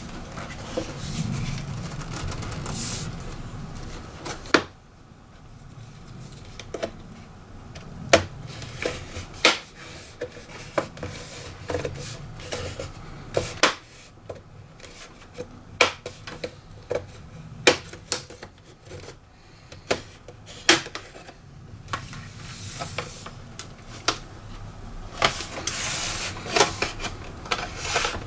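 Hands working on a laptop during disassembly: irregular sharp clicks and taps of small screws, tools and plastic parts, with rubbing and scraping at the start that stops with a click.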